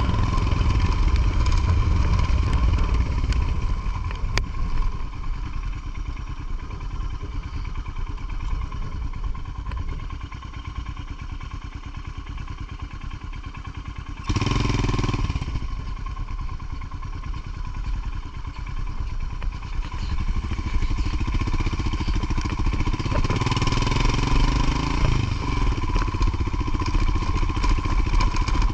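Motorcycle engine running under way with a steady pulsing rumble, quieter through the first half and picking up again later. About halfway through comes a short loud rush of noise.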